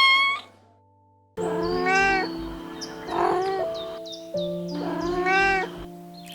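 Cat meows over background music: a meow trails off at the start, then after about a second of silence the music comes in with two more drawn-out meows, about three seconds apart. The cat voices are AI-generated.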